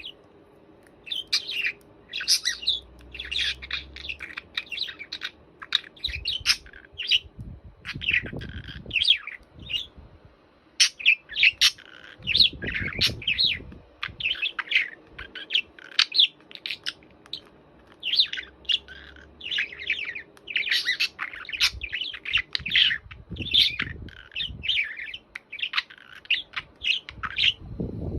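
A bird chirping and chattering, a rapid, steady string of short, high chirps.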